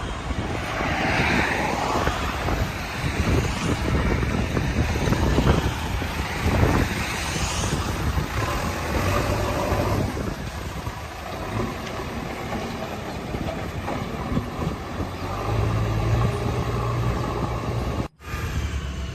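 Diesel engines of heavy earthmoving machinery running under load, with rattling and clanking through the noise. The sound cuts out for a moment near the end.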